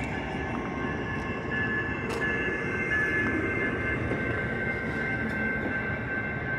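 Amtrak Siemens SC-44 Charger diesel-electric locomotive running: a steady rumble with a steady high-pitched whine over it, and a few faint clicks.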